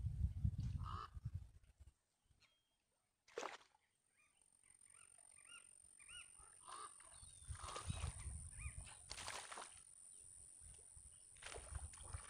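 Repeated short honking bird calls, some rising and falling, with a sharp click about three seconds in and another about nine seconds in, over a low rumble in places.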